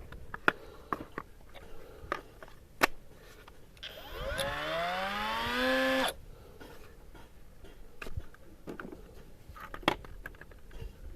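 Small brushed electric motor of a mini angle grinder switched on for about two seconds, its whine rising in pitch as it spins up, then cut off suddenly. Light handling clicks and knocks before and after.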